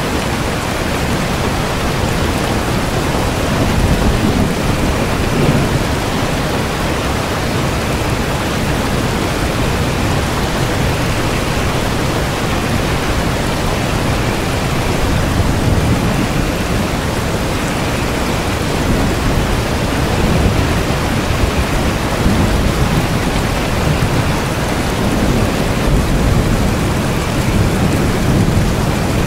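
Steady heavy rain, with a low rumble swelling and fading now and then underneath it.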